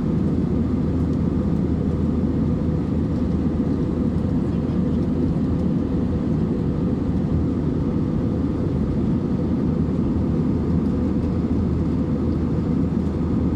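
Steady, low cabin rumble inside an Airbus A320-232 in flight: engine and airflow noise from its IAE V2500 turbofans, even and unchanging in level.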